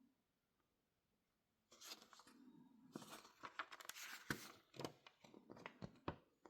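Packaging being handled and torn open: crinkling and rustling with a few sharp knocks and clicks, starting about two seconds in.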